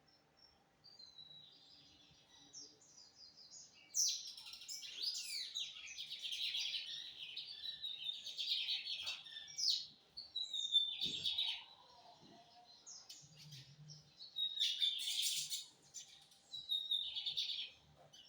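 A lined seedeater (bigodinho) singing: quick, varied chirps and trills, starting softly about a second in, then a long loud run of song, with two more short phrases near the end.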